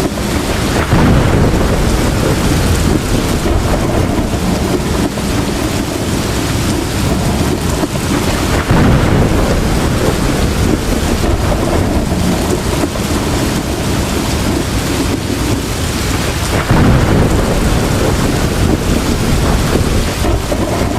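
Heavy rain falling steadily in a thunderstorm, with rolling thunder that swells up three times: about a second in, near nine seconds and near seventeen seconds.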